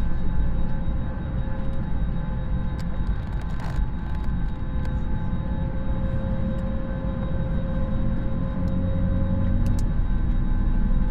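Airbus A321neo cabin during engine start, heard from a seat by the wing: a steady low rumble with several steady whining tones from the Pratt & Whitney geared turbofan engines. Faint clicks are scattered through it.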